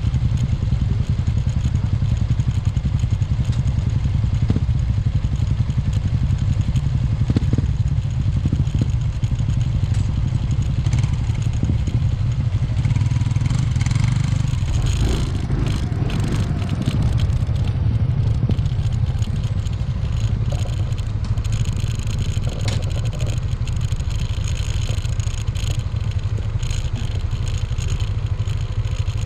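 Yamaha NMax scooter running at a steady cruise under a heavy low rumble, with scattered clicks and rattles in the middle stretch.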